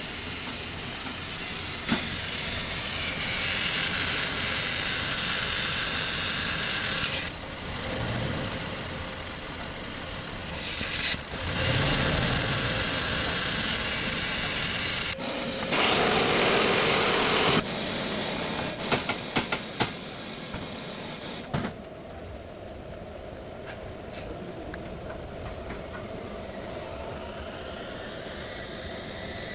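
Toyota Hilux engine running, with stretches of loud hissing noise that start and stop abruptly and scattered clicks and knocks.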